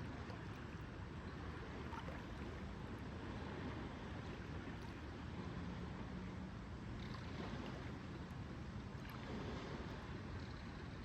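Lakeside ambience: a steady wash of water moving at the lake's edge with some wind, plus a few faint ticks.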